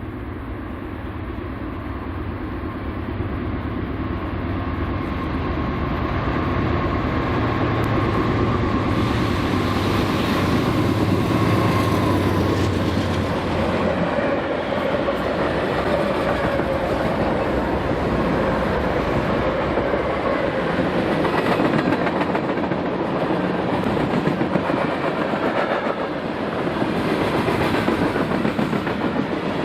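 Diesel locomotives of a BNSF freight train passing close by, growing louder over the first several seconds, with a low engine drone and a whine that drops in pitch about halfway as they go by. Then the freight cars roll past, their wheels clicking over the rail joints.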